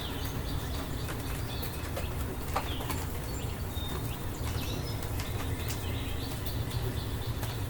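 Rain falling steadily, with scattered drops ticking and a constant low rumble underneath. Birds give a few short, high chirps.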